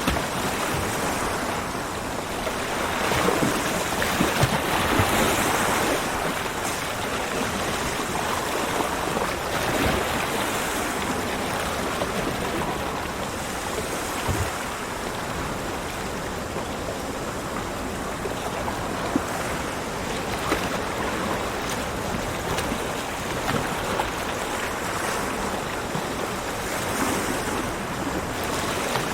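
Ocean waves breaking and washing on a beach, a steady rush of surf that swells and eases over several seconds, loudest a few seconds in.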